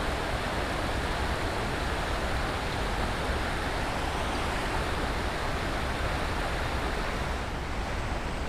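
Steady rush of water pouring over a small waterfall and dam spillway.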